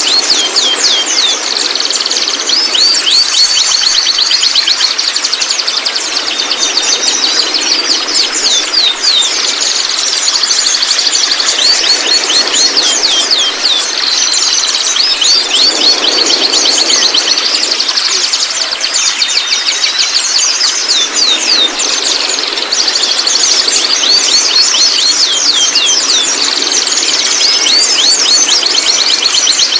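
White-rumped shama calling: repeated runs of quick, sharp downward-swept notes with an occasional rising whistle, over a steady high tone.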